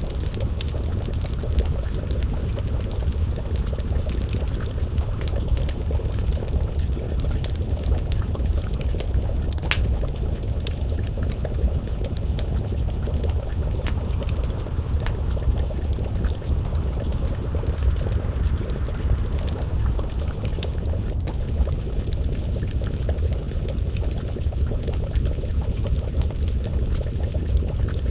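Wood fire crackling with scattered sharp pops, one louder about ten seconds in, over a steady low rumble, with a pot of stew simmering and bubbling over the flames.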